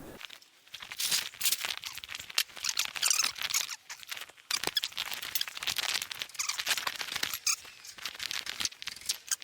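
A spanner working on a bumper bolt, with repeated squeaks, clicks and scrapes of metal on metal and a brief squeal about three-quarters of the way through.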